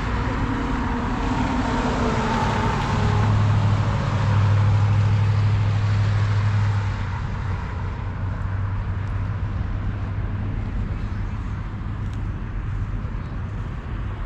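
A car engine running with a steady low drone that gets louder about three seconds in and eases back after about seven seconds, over steady traffic noise.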